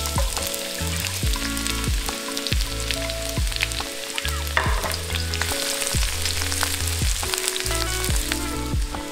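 Chopped onion, garlic and shiitake mushrooms sizzling and frying in hot canola oil in a wok, stirred with a spatula. A steady hiss starts as the food hits the oil. Background music with a bass line plays underneath.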